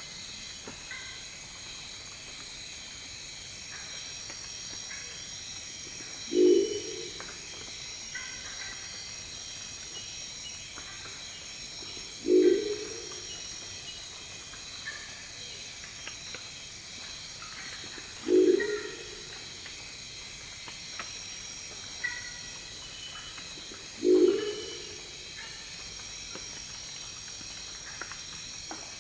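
Crested owl (Lophostrix cristata) giving its deep, gruff, croaking call four times, each short and about six seconds apart, over a steady high-pitched background chorus.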